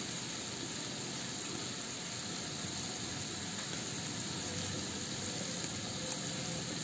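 Mixed vegetables and paneer sizzling steadily in a nonstick kadai, with one light click near the end.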